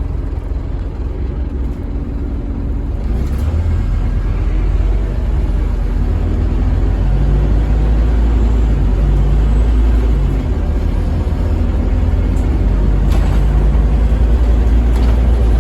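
Scania N230UB OmniCity single-decker bus engine running under way, heard from inside the bus: a deep steady rumble that grows louder about three seconds in.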